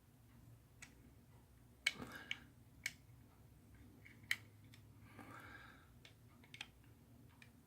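Scattered light clicks of hard plastic model-kit parts, the two halves of a 1:72 F-86F Sabre fuselage, being handled and pressed together. The sharpest click comes about two seconds in, with a brief soft scrape about five seconds in.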